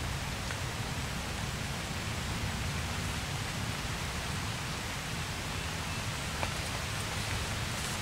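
Steady rain falling on lake water, an even hiss with a sharper tick about six seconds in.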